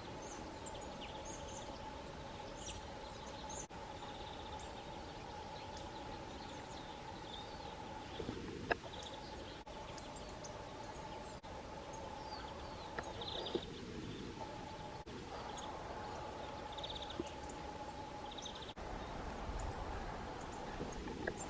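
Small songbirds chirping and calling on and off, with a few short rapid trills, over a steady two-note hum; a sharp click about nine seconds in.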